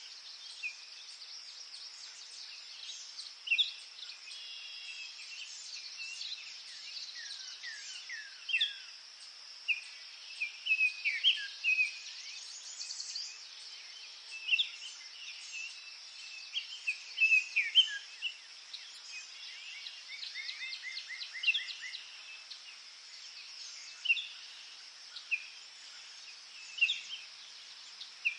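Forest birds singing and calling: many short chirps and quick downward-sweeping whistled notes from several birds, with a rapid trill of evenly spaced notes about two-thirds of the way through. A steady high-pitched hiss runs beneath them.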